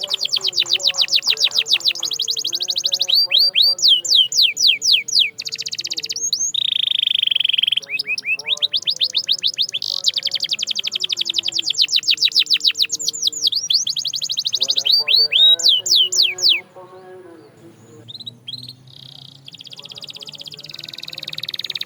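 Canary singing: long rapid trills of quickly repeated high notes, runs of fast downward-sweeping notes, and a held buzzing note. The song breaks off about 17 seconds in and starts again softly near the end.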